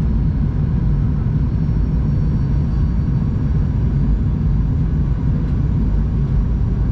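Steady cabin noise inside a Boeing 737-800 in flight: a low rumble of airflow and the jet engines, with a few faint steady tones above it.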